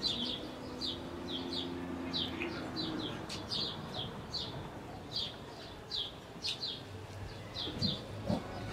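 Small birds chirping repeatedly in short, quick downward chirps, a couple every second. A faint low hum runs under them for the first few seconds.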